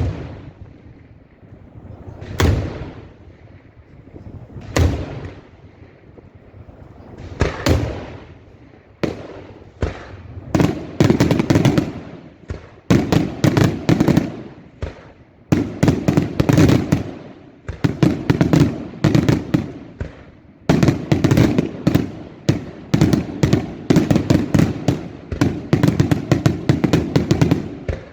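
Daylight fireworks display: a few single loud bursts spaced a couple of seconds apart, each with a short rising lead-in, then from about ten seconds in, rapid volleys of sharp bangs and crackles, several a second, coming in waves with brief gaps between.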